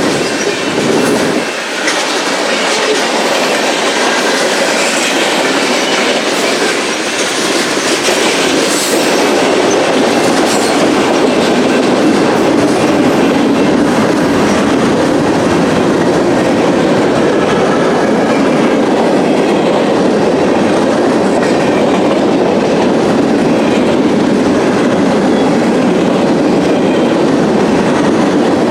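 Freight train cars rolling past, wheels clattering steadily over the rails, with a few sharp clicks in the first ten seconds.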